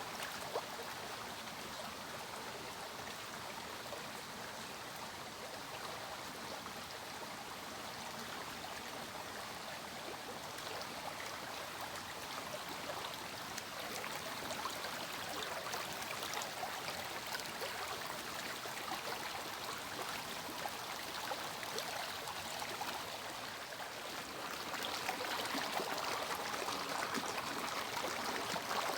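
Water of a small cascade or stream running steadily over rocks, a continuous rushing and trickling that grows a little louder near the end.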